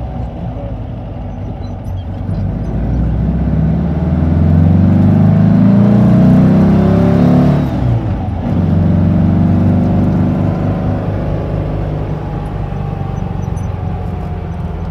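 Porsche 356's engine pulling hard and rising in revs for several seconds, then a brief drop about eight seconds in as the driver shifts up, after which it runs steadily at lower revs.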